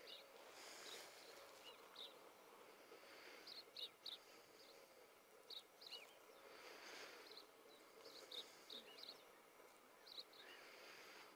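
Faint outdoor ambience: distant birds calling, with short high chirps scattered through, over a soft rushing noise that swells three times.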